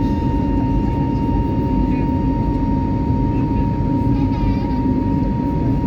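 Steady in-flight cabin noise of an Airbus A320neo with CFM LEAP-1A engines: a constant rush of airflow and engine, with a steady high hum running through it.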